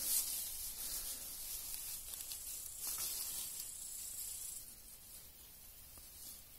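Rustling of grass and forest-floor leaves, a hissy scratching with a short louder scrape about three seconds in, dying down after about four and a half seconds.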